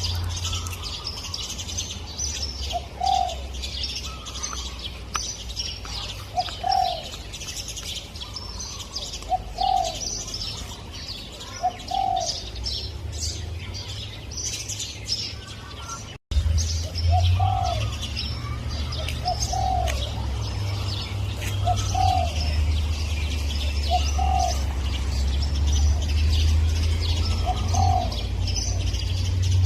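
Spotted dove cooing: short low notes repeated every two to three seconds, over a chorus of small birds chirping and a steady low hum. The sound cuts out for a moment about halfway through.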